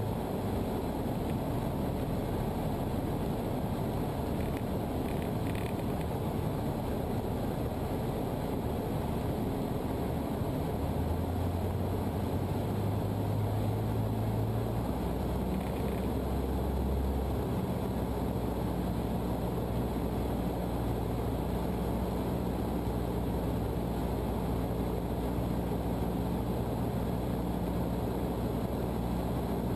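Cessna 152's four-cylinder Lycoming O-235 engine and propeller droning steadily on final approach. The engine note shifts a few times and settles higher in pitch about two-thirds of the way through, as power comes on for the go-around.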